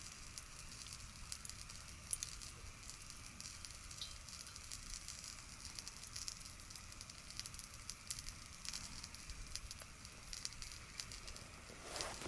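Small wood campfire crackling faintly, with scattered sharp pops and a light sizzle from salted yamame trout grilling over the embers.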